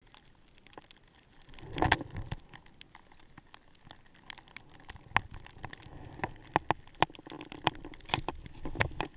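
Skiing on snow: skis scraping with scattered sharp clicks and knocks, a louder scuffing rush about two seconds in and a run of louder knocks near the end.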